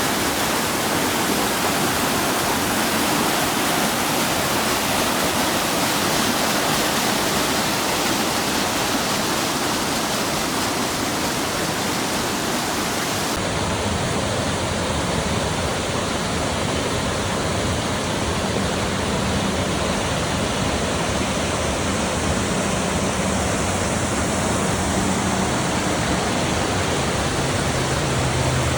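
Steady rush of water from a mountain stream cascading over rocks. About halfway through the sound changes abruptly, losing its highest hiss and gaining a low hum underneath.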